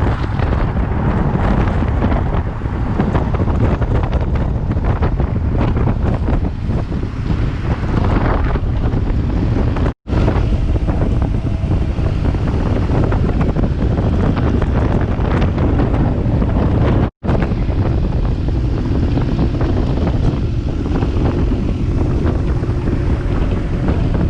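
Heavy wind buffeting on the microphone of a motorcycle riding at speed, a loud steady rumble with the BMW R1200GS's engine running faintly underneath.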